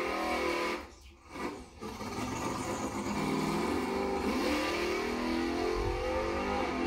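Chevrolet Malibu drag car's engine revving hard as the car launches and accelerates down the strip, with a brief drop-out about a second in.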